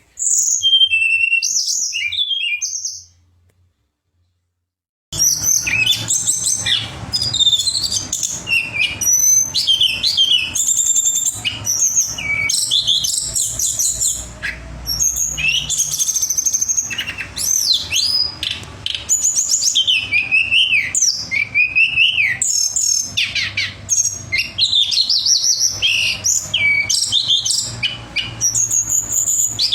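Tledekan (blue flycatcher) singing: rapid, high, sweet whistled phrases that glide up and down. A short burst comes first, then a pause of a second or two, then unbroken song from about five seconds in.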